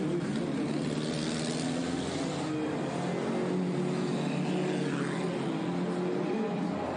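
Pre-war racing car engine running steadily as the car drives past, its pitch rising and falling slightly.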